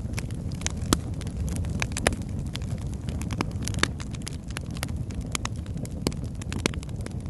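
Wood logs burning in a fireplace: a steady low rumble of flame with irregular sharp crackles and pops, several a second, the loudest about one and two seconds in.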